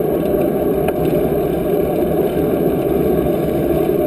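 Steady low rumble of wind buffeting the microphone during a bicycle ride.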